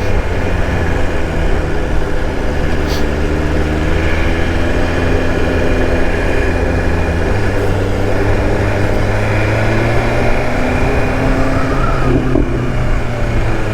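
BMW S1000RR's inline-four engine running steadily while riding, with wind rushing over the microphone. The engine note shifts a little in pitch around the middle.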